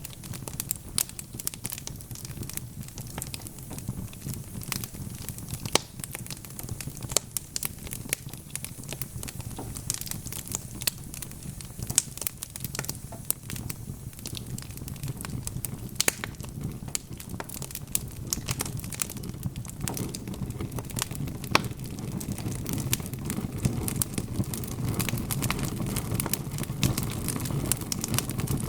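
Wood fire crackling, with frequent sharp irregular pops over a low, steady rumble of the flames. The rumble grows louder about two-thirds of the way through.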